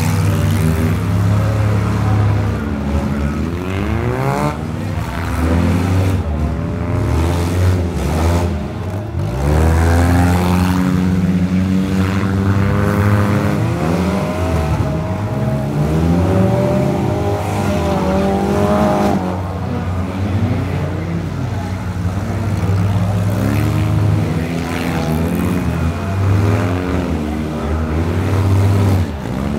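Demolition derby cars racing on a dirt track, their engines revving up and down as they pass.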